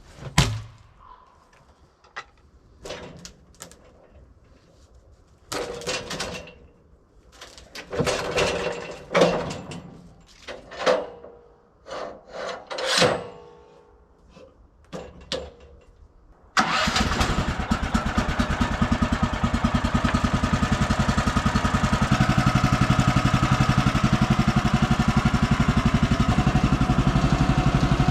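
A series of scattered knocks and clunks, then about two-thirds of the way through a small engine starts abruptly and runs steadily.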